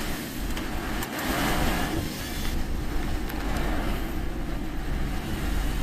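A car driving in typhoon rain, heard from inside the cabin: a steady rush of rain and water under the tyres over a low engine and road rumble, with a few faint knocks.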